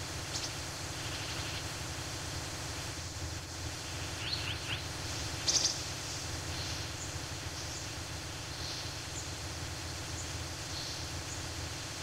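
Small birds chirping in short, scattered high calls over a steady hiss of forest ambience. A quick run of three falling chirps comes a little before halfway, and the loudest chirp follows about a second later.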